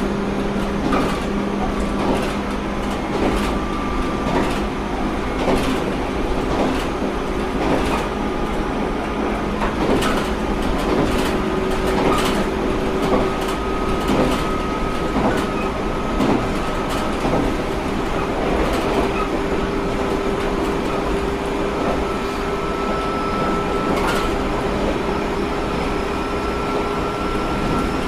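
JR Kyushu 713 series electric train running: a steady whine that rises slowly in pitch as it gathers speed, over a constant rumble, with knocks of the wheels over rail joints about once a second.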